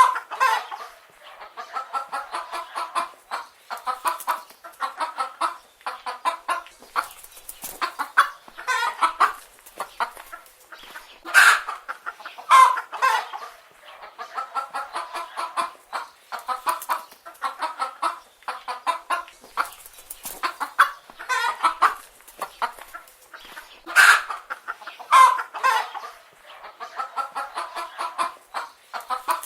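Hens clucking continuously, many short calls overlapping, with a louder call standing out about every twelve seconds.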